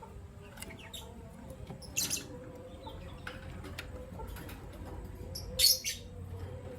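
Pet lovebirds chirping: two loud, shrill, short calls, about two seconds in and again about three and a half seconds later, with softer chirps and small clicks between, over a faint steady hum.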